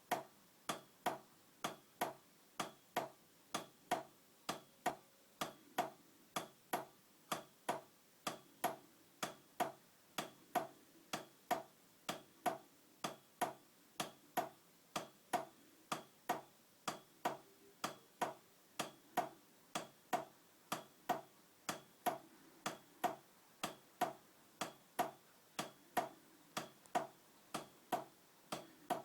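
Heinrici 55 mm hot air engine running slowly, with a sharp knock at an even beat of about two a second. The knock is play in the running gear, which the owner calls "a bit of a knock".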